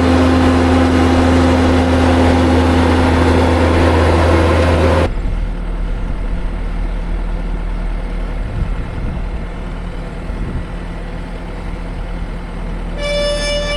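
Heavy farm machinery engine running steadily at a constant speed. About five seconds in it changes abruptly to a quieter, lower drone, and a brief higher tone sounds near the end.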